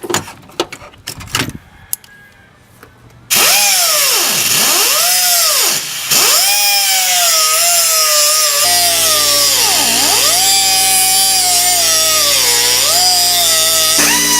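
A few seconds of light knocks and clatter, then about three seconds in a cutoff wheel starts up loud and cuts into the go-kart's steel exhaust pipe. Its pitch drops and recovers again and again as the wheel bites into the pipe.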